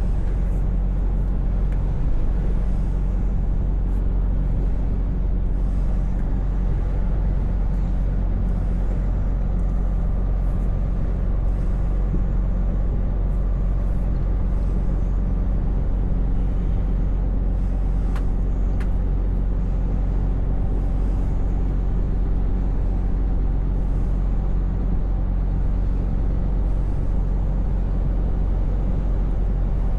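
Scania V8 truck engine running steadily under way, a low, even drone with road noise.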